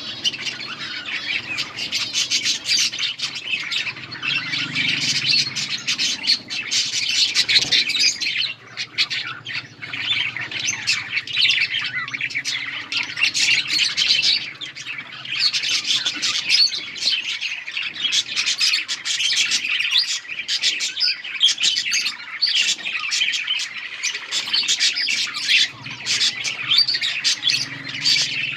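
Budgerigars chirping and squawking in a continuous, dense chatter of many overlapping calls.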